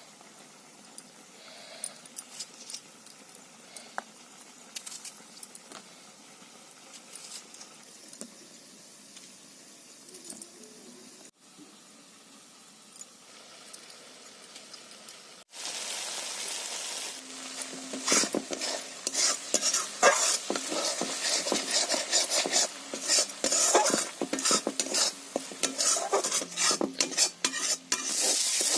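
Food frying in hot oil in a pan: a loud, steady sizzle starts abruptly about halfway through, and a few seconds later come the scraping and clinking of a spatula stirring in the pan. Before that there are only faint, occasional light clicks.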